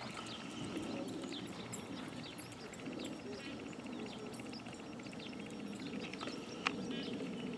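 Birds chirping and trilling over a steady outdoor background hiss, with one sharp click near the end.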